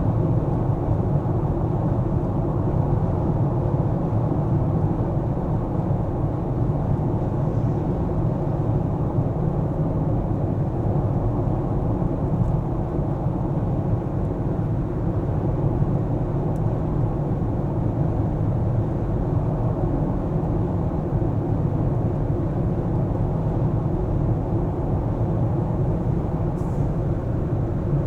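Car driving steadily through city streets: a constant low rumble of engine and tyre noise that neither rises nor falls.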